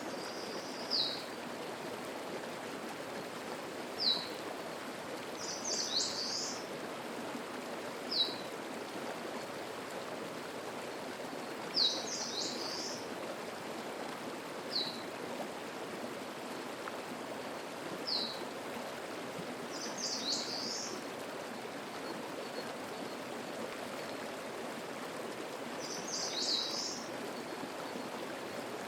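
Mountain stream babbling steadily, with spring birdsong over it: a short high song phrase repeated about every six seconds, and single short high notes falling in pitch in between.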